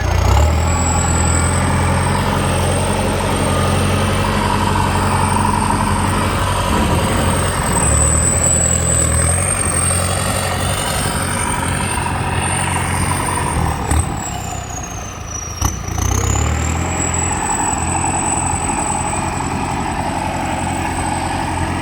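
Kubota tractor's diesel engine running steadily with a thin high whine above it. About 14 s in the engine note and the whine both sag briefly, with a sharp click, then pick back up.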